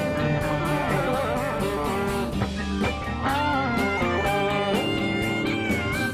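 Band playing an instrumental passage: an electric guitar plays a lead line with bent notes over bass and drums.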